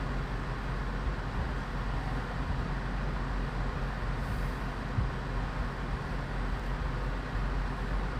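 Steady low rumble of outdoor background noise with distant vehicle traffic, with no distinct event standing out.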